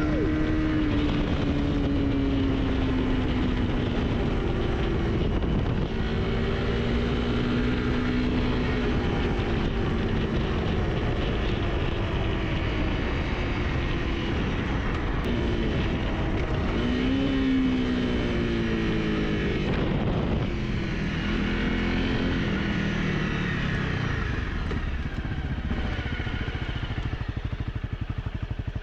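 Honda CRF 250 Rally's single-cylinder engine running under way as the bike is ridden, its pitch rising and falling with the throttle and gear changes. The engine fades somewhat near the end.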